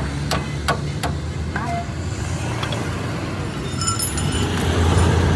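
Road traffic rumbling, swelling louder near the end as a vehicle goes by, with three sharp knocks in the first second or so.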